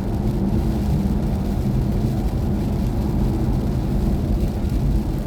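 Steady low road and tyre rumble inside the cabin of a moving BMW i4 M50, an electric car with no engine running.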